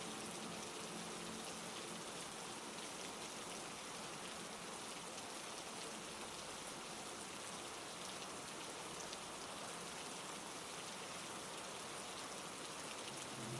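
Heavy rain falling steadily: a continuous hiss of drops on surfaces, with no thunder or other distinct events.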